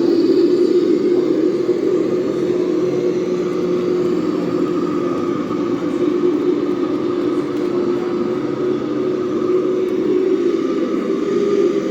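Radio-controlled model vehicles running: a steady mechanical whine and hum that eases slightly in the middle and picks up again toward the end.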